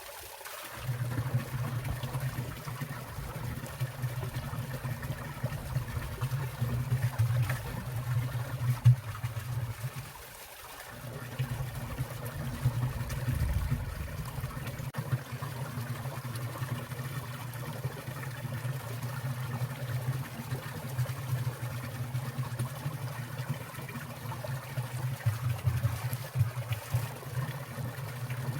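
Water of a winter valley stream trickling and falling among icicles, a steady running-water sound that dips briefly about ten seconds in.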